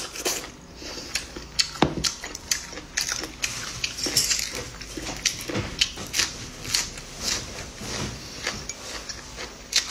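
Close-miked eating sounds: chewing and crunching of food in quick, irregular bites, with a few sharper clicks of chopsticks or dishes.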